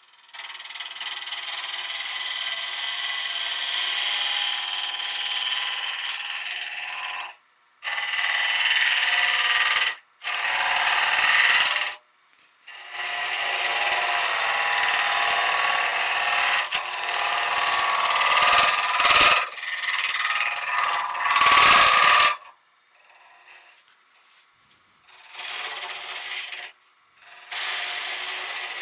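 A woodturning gouge being sharpened on a bench grinder: steel ground against the spinning wheel in several passes of a few seconds each, with short breaks between them.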